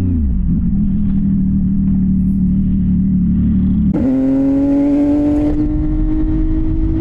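CFMoto 675NK's three-cylinder engine running through a titanium full-system exhaust while riding. The engine note drops just after the start, holds steady, then jumps higher about four seconds in and climbs slowly.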